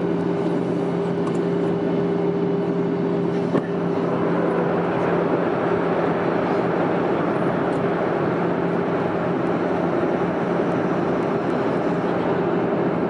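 Steady roar of a Boeing 737-900ER's CFM56 jet engines and airflow, with a constant low hum underneath and a single click about three and a half seconds in.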